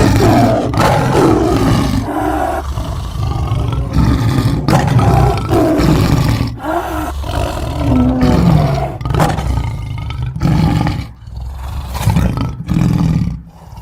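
Custom monster sound effect: a long run of loud, rough roars and growls with pitch that slides up and down. It starts abruptly out of silence and breaks into shorter, quieter growls near the end.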